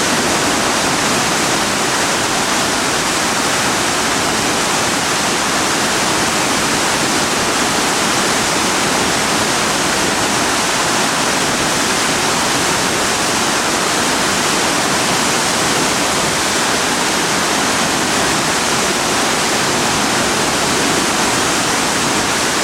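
The Driva river in a major flood, its water rushing loud and steady without a break.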